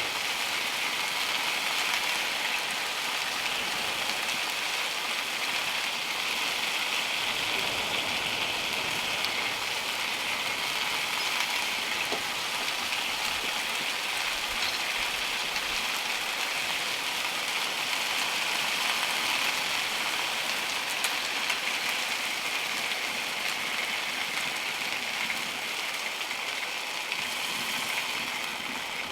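A steady, even pattering hiss, like precipitation falling on a surface, holding unchanged throughout.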